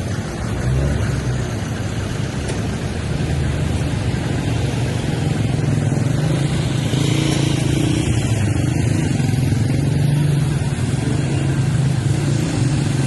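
A motor vehicle's engine running close by as a steady low hum that grows somewhat louder in the second half, with an even hiss over it.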